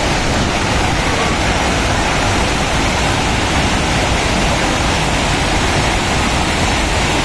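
Waterfall rushing: loud, steady falling-water noise with no let-up.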